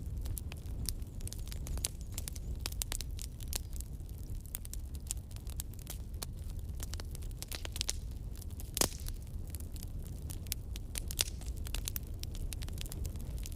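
Wood fire burning in a fireplace: logs crackling with irregular sharp pops over a low steady rumble of the flames, one pop louder than the rest about nine seconds in.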